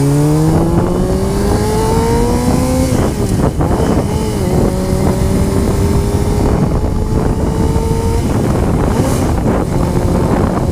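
Honda CBR motorcycle engine pulling under acceleration: its pitch rises, drops at a gear change about three seconds in, then climbs slowly again. Wind rushes over the helmet microphone throughout.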